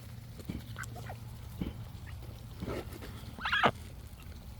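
Ducks quacking: a few short, scattered calls, the loudest a harsh burst about three and a half seconds in.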